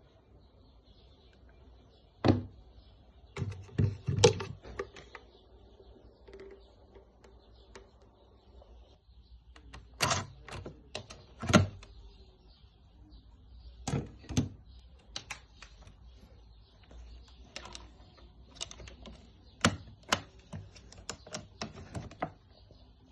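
Irregular sharp clicks and knocks, the sound of the wet-dry vacuum's parts being handled, scattered in clusters with short gaps between them. The vacuum's motor is not running.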